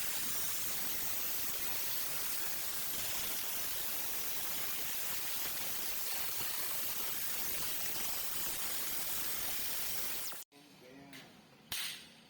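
A steady, even hiss that cuts off suddenly about ten and a half seconds in, followed by faint, quieter sounds.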